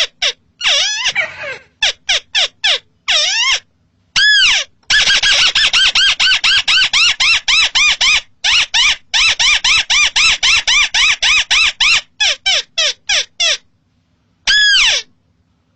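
Paddy-field crake calling: a series of short arching notes, a few scattered at first, then a fast run of about six a second, slowing to single notes near the end.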